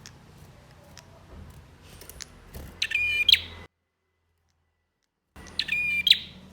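Male prinia (prenjak) song: a few faint chirps, then two loud, fast chattering phrases, each about half a second long, separated by a break of complete silence.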